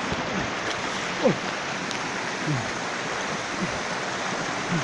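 Rushing river water, a steady hiss of flowing water over rocks. A few brief louder sounds cut through it, the loudest about a second in.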